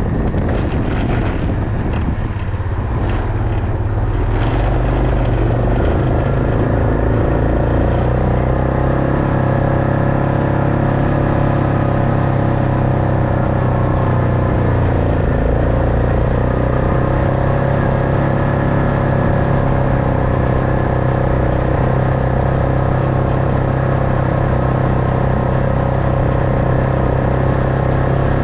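Vehicle engine running steadily while driving, with some knocks and rattles over the first few seconds.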